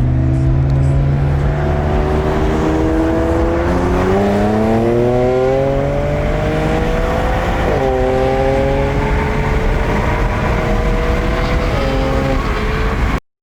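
A car engine accelerating: the revs climb slowly, drop at a gear change about 8 seconds in, climb again, and drop once more near 12 seconds. The sound then cuts off suddenly.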